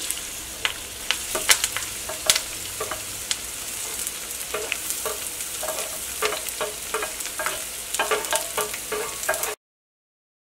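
Chopped onions, ginger, garlic, green chillies and curry leaves sizzling as they go into hot oil in a stainless steel pan, with a spatula scraping and clinking against the pan as they are stirred. The sound cuts off suddenly near the end.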